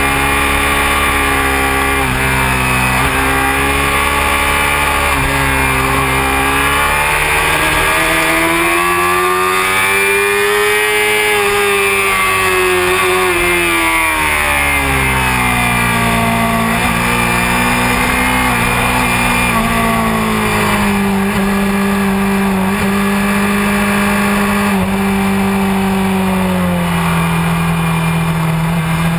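Honda CBR600F4i sport bike's inline-four engine heard onboard at track speed, over steady wind rush. The engine pitch wavers at first, climbs smoothly to a peak about eleven seconds in, drops away over the next few seconds, then holds at a lower, steadier pitch that sags slightly near the end.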